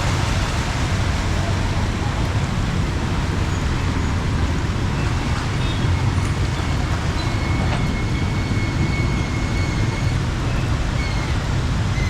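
Heavy rain falling steadily, mixed with road traffic and a continuous low rumble. A faint high whine comes in a few seconds past the middle and again near the end.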